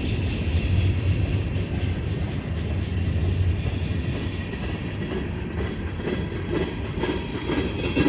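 Freight train cars rolling past on the rails, a steady rumble with wheel clatter; the deep low rumble eases a little after about three and a half seconds.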